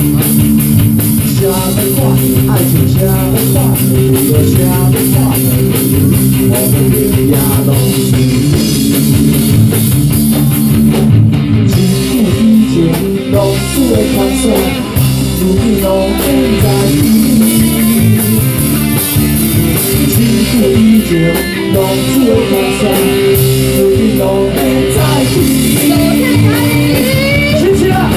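Live rock band playing an instrumental passage: guitar lines over a drum kit and bass, loud and continuous.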